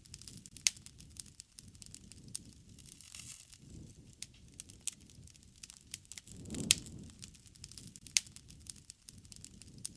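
Wood fire crackling, with irregular sharp pops and snaps over a low rush of flame that swells about halfway through.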